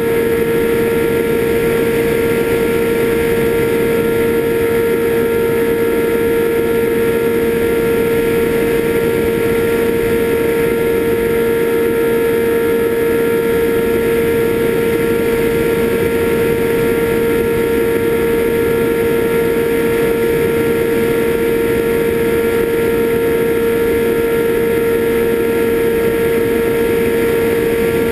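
Electric motors of an FPV aircraft running at a constant pitch, a steady whine over a rushing of air noise, with no change in speed.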